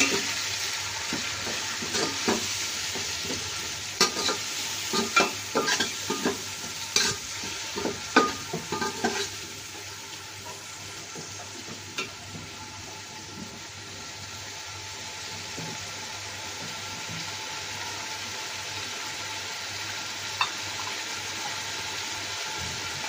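Tomato, green chillies and ginger-garlic paste frying in hot mustard oil in an aluminium pot, with a steady sizzle. A perforated metal spoon stirs the masala, scraping and clinking against the pot for the first nine seconds or so. After that the sizzling goes on alone, with an odd tap of the spoon.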